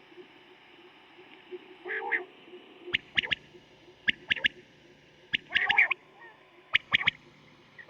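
Quail (batair) calling: several quick bursts of three sharp notes, with two rougher, lower calls about two seconds in and midway through.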